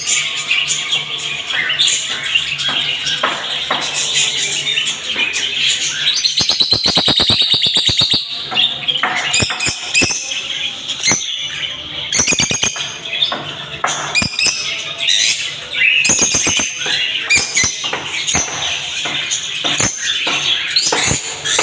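Budgerigars chattering, a dense, continuous run of high chirps and clicks, with a fast rapid series of clicks about a third of the way in.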